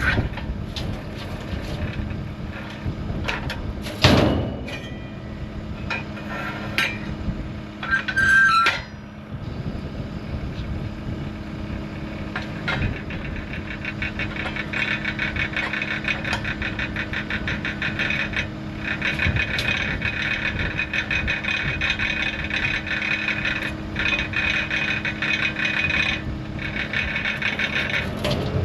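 Skid-steer loader engine idling steadily, with a few sharp metal clanks in the first half. From about halfway on there is a fast, continuous rattling ticking.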